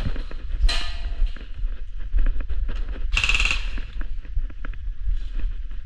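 Airsoft guns firing: irregular sharp snaps and short rapid bursts over a constant low rumble.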